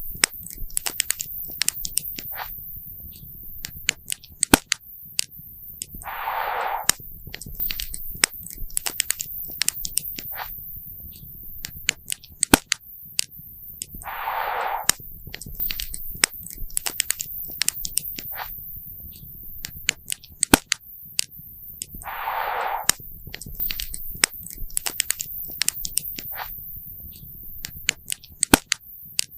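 Wood campfire crackling, with sharp irregular pops and snaps over a low steady rumble. A short hissing rush recurs about every eight seconds.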